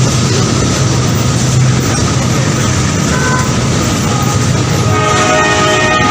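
Train running with a steady, loud rumble. Its horn gives a brief toot about three seconds in, then sounds again about five seconds in as a held, multi-note blast.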